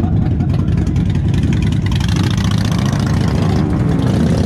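Motorcycle engine running at a steady idle, with a slight rise in revs about three seconds in.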